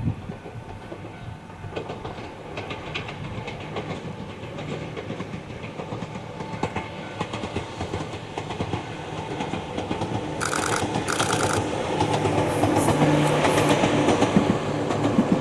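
Ohmi Railway electric train approaching, its wheels clicking over rail joints and growing louder as it nears. About ten seconds in it sounds two short horn blasts, then a steady motor hum rises beneath the wheel noise.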